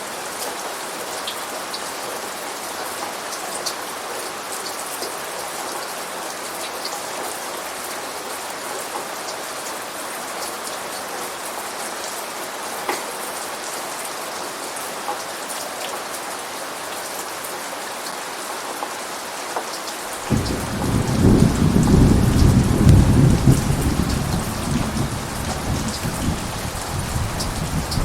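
Steady rain falling, with small drop ticks. About two-thirds of the way through a deep roll of thunder starts abruptly, rumbles loudest for a few seconds and slowly fades.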